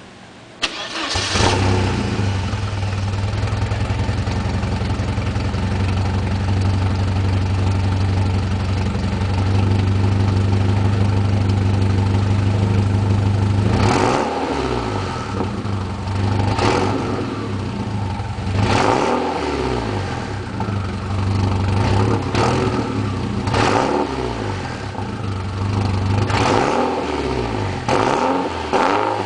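Porsche 944 Turbo's turbocharged 2.5-litre four-cylinder engine with a Borla exhaust starting about a second in, then idling steadily. From about halfway on it is blipped up and down in about seven short revs.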